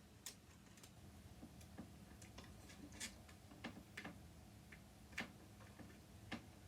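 Faint, irregular light clicks of a screwdriver working at small screws on a sewing machine's wire terminal, metal tapping on metal.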